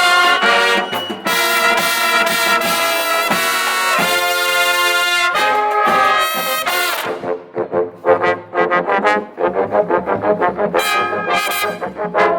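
High-school marching band's brass section playing loud sustained chords, switching about seven seconds in to short, clipped note hits separated by brief gaps.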